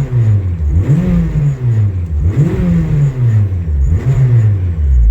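Built turbocharged Honda LSVTEC four-cylinder on E85 being revved: three throttle blips that rise and fall in pitch, then dropping back to idle at the very end. It settles back to idle even though the tune is way off.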